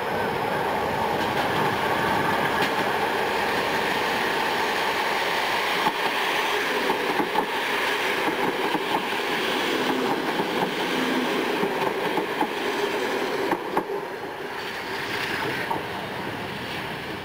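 Network SouthEast electric multiple unit running past close by, with steady running noise and wheels clicking over rail joints and pointwork as the coaches go by. The sound drops and gets quieter near the end.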